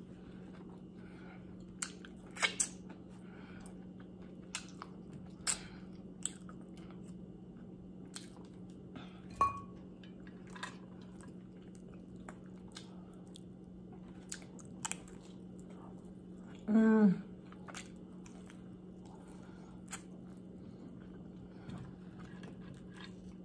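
Close-miked eating of BBQ pork ribs: wet chewing, scattered lip smacks and clicks as the meat is pulled off the bone and eaten, over a steady low hum. About two-thirds of the way through comes a brief hummed sound whose pitch falls, the loudest moment.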